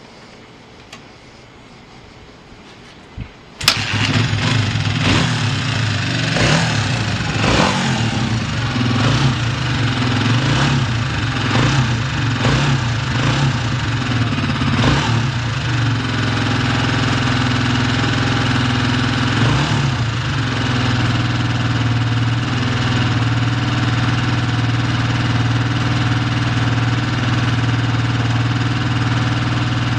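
Honda XLR250R's single-cylinder four-stroke engine kick-started, catching suddenly about four seconds in. It is blipped with the throttle about once a second for some ten seconds, then settles to a steady idle with one more blip, revving cleanly and idling evenly with no abnormal noise, a sign of a healthy engine.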